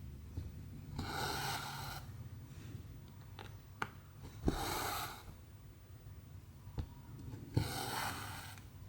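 Hand cross-stitching: cotton thread drawn through 14-count canvas in three rasping pulls about three seconds apart, each about a second long, with a few light needle clicks between them.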